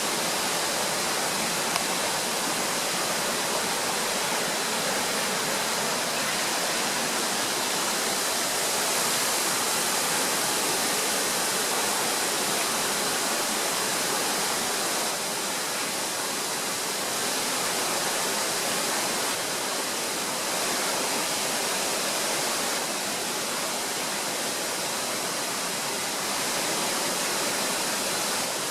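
River water falling and rushing at a waterfall, a steady even rush that does not let up.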